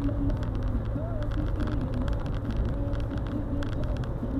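Car driving: a steady low rumble of engine and road noise, with faint scattered clicks above it.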